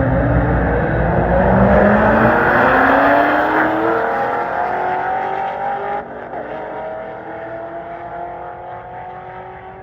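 Drag-racing street car accelerating hard down the strip: its engine note climbs steadily in pitch and fades as the car pulls away, with a sharp drop in level about six seconds in.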